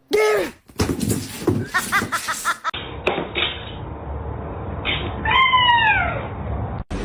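A domestic cat meowing: a short meow at the start and a longer meow about five seconds in, its pitch rising and then falling away.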